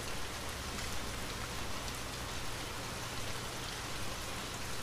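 Steady rain falling on broad wet leaves and splashing onto puddled ground, with water running off the leaves.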